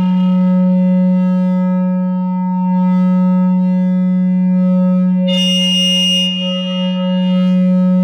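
No-input mixer feedback drone: a loud, steady low hum with a ladder of fainter overtones above it. A little after five seconds in, a bright, buzzy band of high overtones swells for about a second, then drops back.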